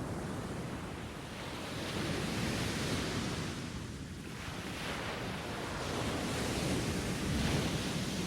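Waves washing in, a rushing noise that swells and eases about three times.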